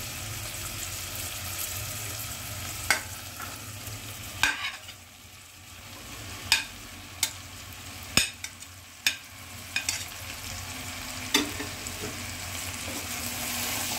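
Oil sizzling in a pan as chopped okra is added to frying potatoes, onions and tomatoes, with about ten sharp clicks and knocks against the pan scattered through. The sizzle drops for a moment about five seconds in, then returns.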